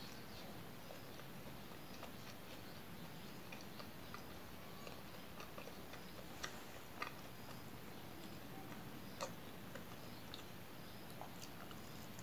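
Soft, close-up mouth sounds of chewing roti sai mai, a thin crepe rolled around cotton-candy sugar threads: small moist clicks and smacks, with three sharper clicks in the second half, over a steady faint hiss.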